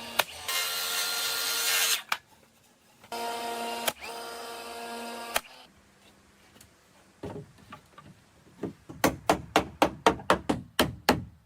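Small power drill running in two bursts of about a second and a half and two seconds, each with a steady whine. Near the end comes a rapid string of about a dozen sharp knocks, roughly five a second.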